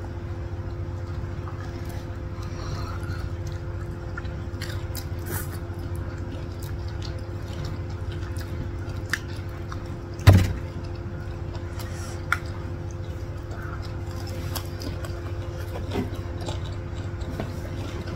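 Two people chewing and biting into crispy coated, cheese-filled corn dogs, with small wet smacks and crunches over a steady low hum. There is one loud thump about ten seconds in.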